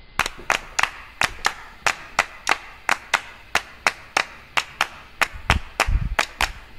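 Sharp percussive clacks in a steady rhythm, about three a second, with a few low thumps joining near the end, like a wood-block beat opening a piece of music.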